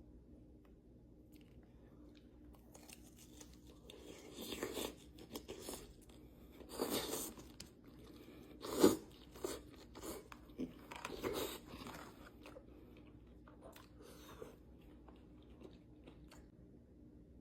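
Close-miked eating: a person biting and chewing crunchy food, in bursts a few seconds apart with the sharpest, loudest crunch about nine seconds in and quiet chewing between.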